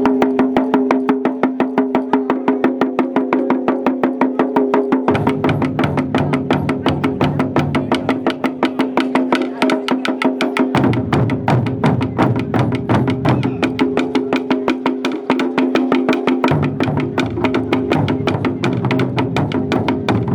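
Japanese taiko drums playing a fast, driving rhythm of rapid, even strokes with a steady ringing drum pitch underneath. A deeper drum layer joins about five seconds in, drops out near eleven seconds, and comes back about sixteen seconds in.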